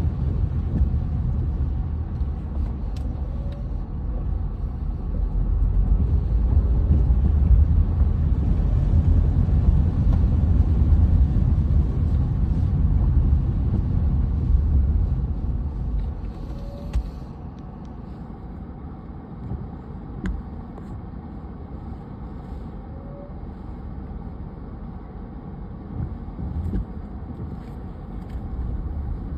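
Low, steady rumble of a car's road noise, which drops to a quieter level a little past halfway.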